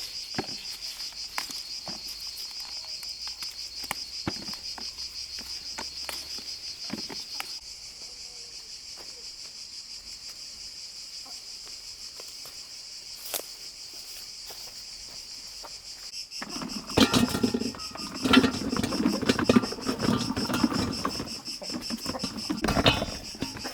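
Crickets chirring steadily in a fast, even pulse. Scattered light clicks of handling early on, then from about two-thirds of the way in a louder run of knocks and rustling, as of things being handled and set down.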